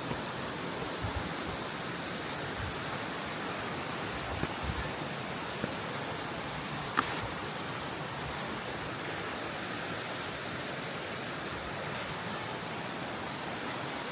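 Steady rush of creek water, an even hiss without changes, with a single sharp click about halfway through.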